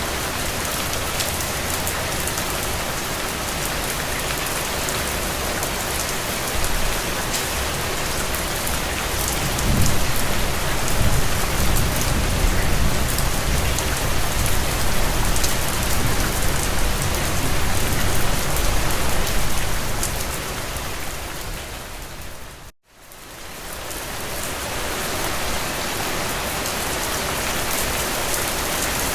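Steady rain falling, with a low rumble of thunder from about ten seconds in that lasts about ten seconds. A little after twenty seconds the whole sound fades to a moment of silence and fades back in.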